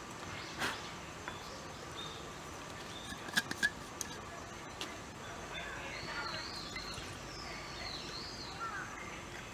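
Birds chirping over steady outdoor background noise, with a few sharp clicks: one about half a second in and a quick cluster about three and a half seconds in.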